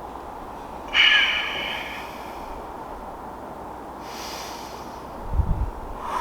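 A person in an ice-cold plunge tub breathing hard against the cold: a loud sharp exhale about a second in and a fainter one about three seconds later, over a steady hiss, with low thumps near the end.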